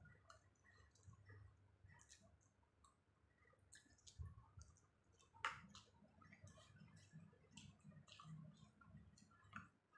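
Faint eating sounds: soft mouth clicks and chewing of a spoonful of misal, with one sharper click about five and a half seconds in.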